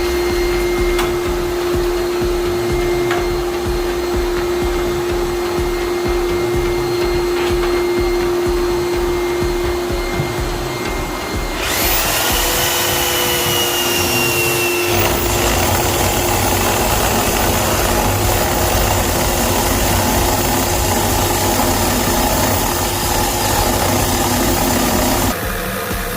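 Motorised installation tools running: a steady motor hum, then about halfway through a louder machine starts with a rushing whoosh and a high whine, running until shortly before the end.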